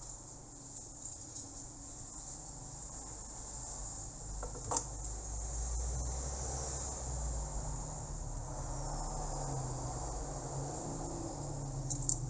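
Steady high-pitched insect chirring with a low hum beneath, broken by a light click about four and a half seconds in and another couple near the end.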